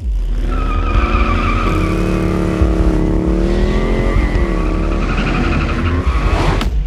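Motorcycle engine running hard with its tyres squealing, the engine pitch dipping and rising. The sound cuts off with a sharp click near the end.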